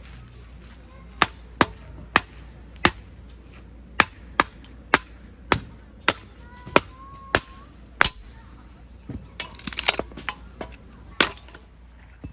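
Chopping: a blade striking down onto wood in sharp, separate strokes about twice a second, with a brief clatter of several quick knocks near the end.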